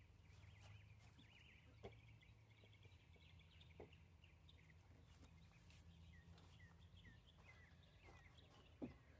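Near silence with faint, scattered bird chirps, a steady low hum and a few soft clicks.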